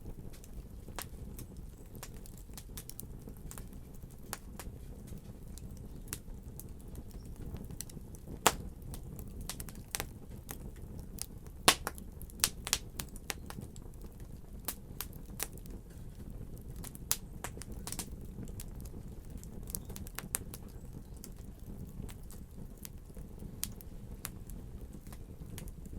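Fire crackling: irregular sharp pops and snaps over a steady low rumble, with the loudest pops about eight and twelve seconds in.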